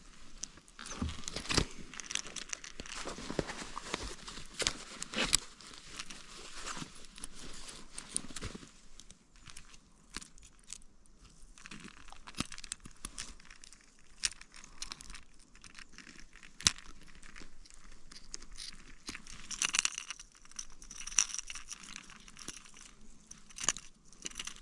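Close rustling and crinkling with many sharp clicks and knocks, dense for the first several seconds and then scattered: handling noise from gear being worked close to the microphone.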